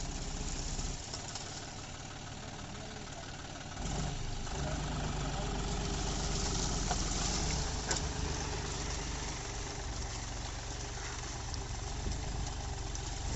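John Deere 5042 D tractor's diesel engine running steadily, getting louder about four seconds in.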